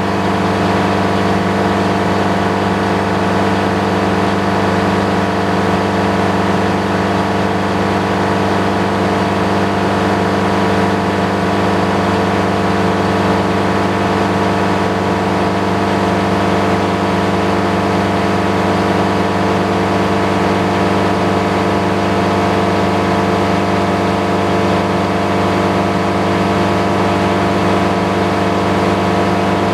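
Sawmill engine running steadily at working speed, coming up to speed in the first second and then holding an even pitch.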